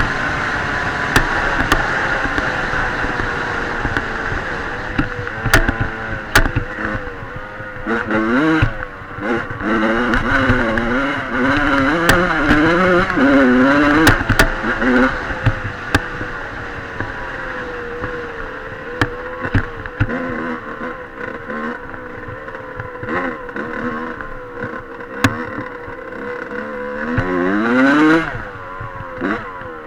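Dirt bike engine running and revving, its pitch rising and falling several times in quick succession in the middle and climbing sharply again near the end, with scattered sharp clicks and knocks.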